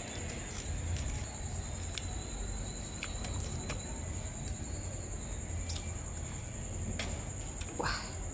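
Close-up eating sounds: chewing a mouthful of balut (fertilised duck egg) in tamarind sauce, with a few short sharp clicks of a metal spoon, over a steady low hum and a faint high whine.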